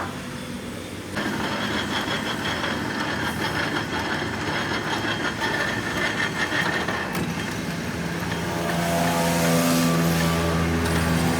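Engine running. It starts noisy about a second in, settles into a steadier hum after about seven seconds, and grows louder as it revs up around nine seconds.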